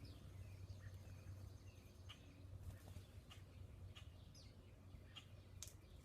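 Faint, scattered short bird chirps and call notes, roughly one or two a second, over a steady low hum.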